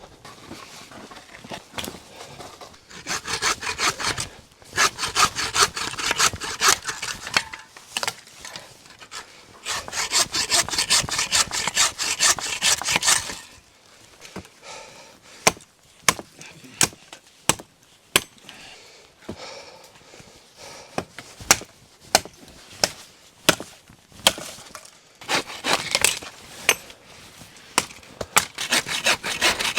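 Hand saw cutting wood in several runs of quick back-and-forth strokes, with scattered sharp cracks of wood snapping in the quieter stretch between the runs.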